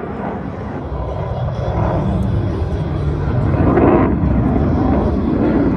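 Aircraft engine noise: a low rumble that grows louder over the first four seconds.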